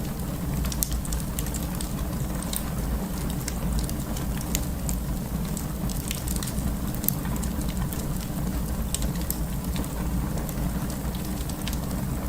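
Wood fire burning with a steady low rumble and irregular sharp crackles and pops, several a second.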